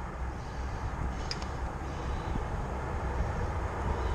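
Steady low rumble of outdoor background noise, with a single sharp click about a second and a half in.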